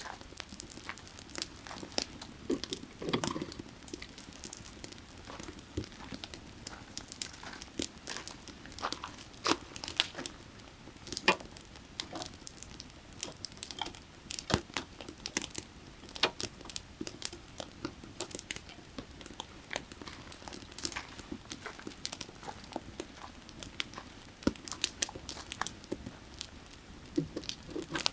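Burning firewood crackling and popping, with sharp irregular snaps several times a second and a few louder pops, over the steady low rush of a creek.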